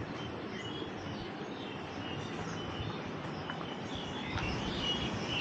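Birds chirping: short high calls, more of them near the end, over a steady low background noise.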